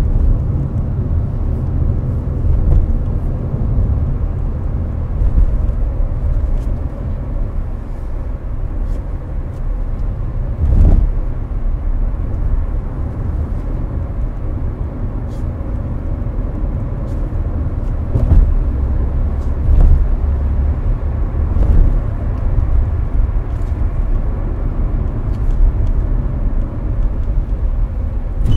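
Hyundai Avante cruising at expressway speed, heard from inside the cabin: a steady, deep road and tyre rumble with air-conditioning noise on top, broken by a few short thumps, the loudest about eleven seconds in.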